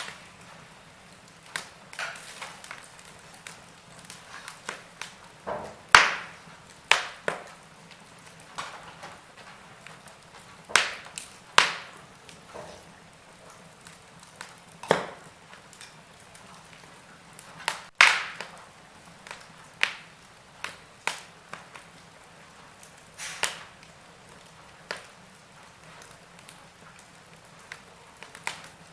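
Wood fire burning: scattered crackles and sharp pops over a soft low hiss, the loudest pops about six and eighteen seconds in.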